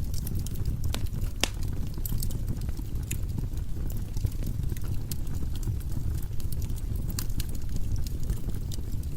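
Firewood burning in a fireplace: a steady low rumble of the flames with irregular sharp crackles and pops from the logs.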